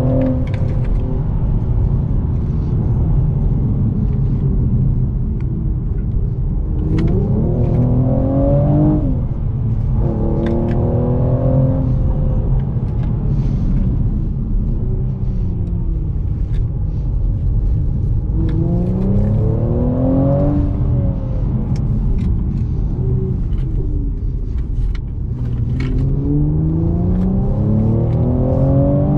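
Mercedes-AMG E43's twin-turbo 3.0-litre V6 under hard acceleration, its revs climbing and falling several times and cutting off sharply twice.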